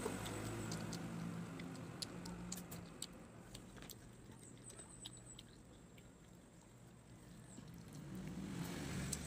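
Eating fried chicken with the mouth close to the microphone: quick crisp clicks and crunches of chewing and biting, scattered mostly through the first half, over a faint low hum.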